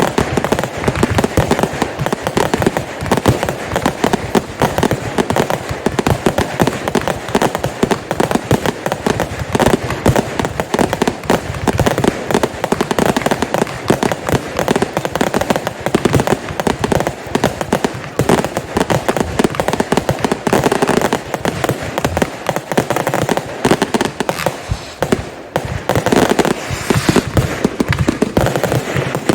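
Consumer fireworks going off in a dense, continuous barrage of rapid bangs and crackles, with no let-up.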